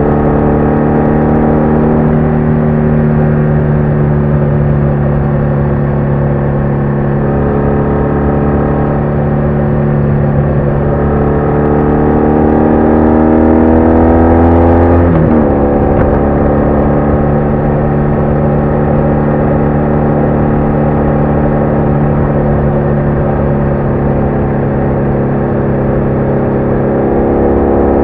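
BMW R1200R motorcycle's flat-twin engine running at steady speed, rising in pitch as it accelerates from about eleven seconds in, then dropping suddenly about fifteen seconds in and settling back to a steady run.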